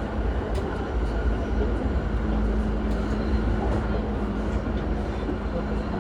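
Running sound of a JR East E235-0 series Yamanote Line electric motor car on the move between stations: a steady rumble of wheels on rail with a constant low hum and occasional light clicks.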